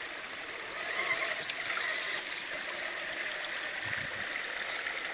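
Water of a small waterfall and stream running steadily.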